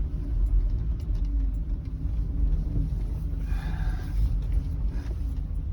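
Inside a moving car's cabin: steady low rumble of the engine and tyres on a snow-covered, unplowed road.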